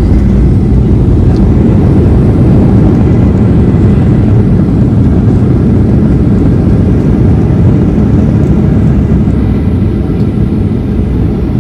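Airliner cabin noise during landing: a loud, steady low rumble of engines and airflow heard from inside the cabin, easing slightly near the end.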